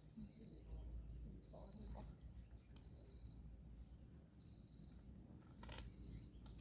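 Faint insect chirping: short high chirps repeating evenly, about one every second and a quarter, with a single sharp click near the end.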